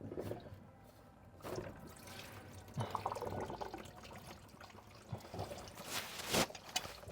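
Used engine oil pouring and splattering out of a Duramax LM2 oil filter housing as the filter is spun off too fast, spraying oil. Irregular splashing with a louder burst about six seconds in.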